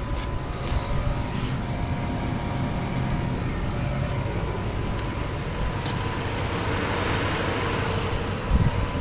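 2006 Chevrolet Colorado pickup's engine running steadily with a low rumble and a faint steady whine, and a hiss that swells and fades around seven seconds in.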